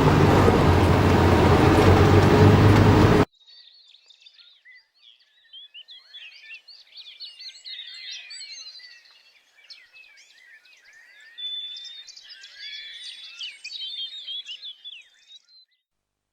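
A loud steady rumbling noise that cuts off abruptly about three seconds in, followed by a chorus of many birds singing and chirping, which stops shortly before the end.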